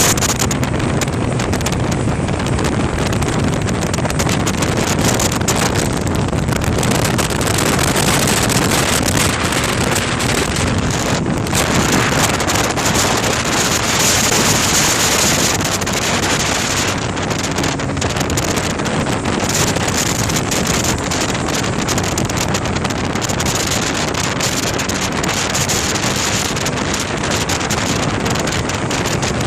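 A car's engine and exhaust running steadily under heavy wind noise on the microphone, with no distinct exhaust pops standing out.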